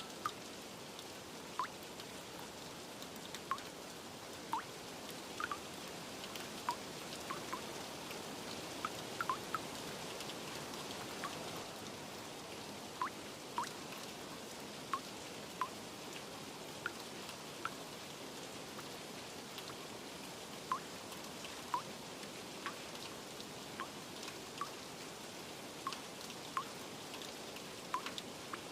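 Steady rain, with single drops plinking clearly and irregularly over it, about one a second.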